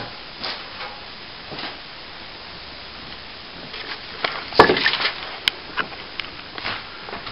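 Plastering trowel scraping and spreading cornice cement over a plasterboard ceiling patch, in short strokes. About halfway through there is a louder knock with more scraping, then a sharp click.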